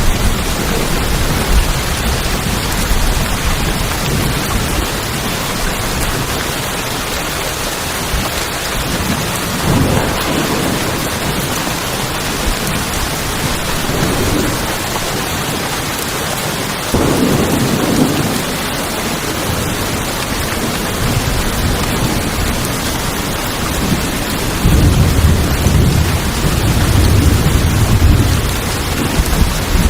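Steady rain pattering on tin roofs, with rolls of thunder over it: low rumbles about ten seconds in and again around seventeen seconds, then a longer, louder rumble from about twenty-five seconds to near the end.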